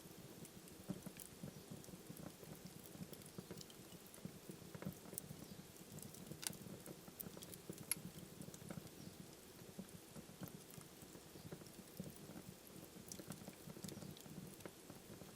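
Wood fire burning in a fireplace: a faint, steady low rumble of flames with scattered sharp crackles and pops, two of them louder around the middle.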